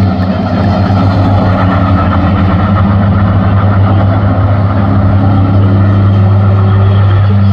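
Heavy truck engine running hard at steady, high revs, loud and unbroken.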